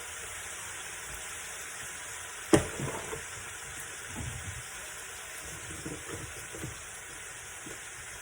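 Chicken frying in a pan with a steady sizzle. A sharp knock comes about two and a half seconds in, followed by lighter clatters of stirring.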